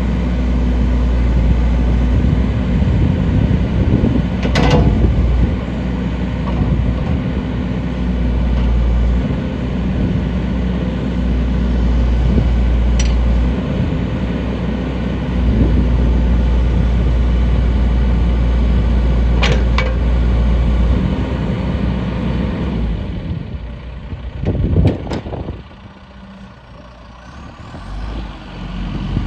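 John Deere 310J backhoe loader's diesel engine running steadily under load, with a few sharp metallic clanks from the machine working. Near the end the engine level drops back.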